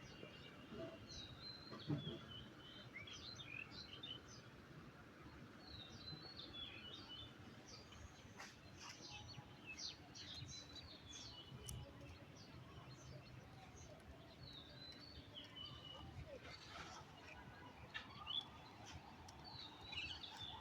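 Small birds chirping faintly in short repeated calls, in clusters throughout, with a soft low thump about two seconds in.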